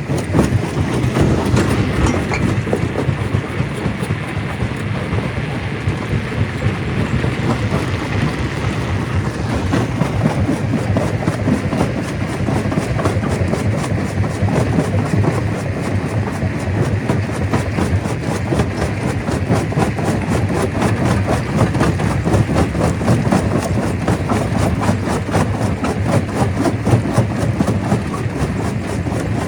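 Stone crusher running and crushing rock: a rapid, steady clatter over a low machine rumble.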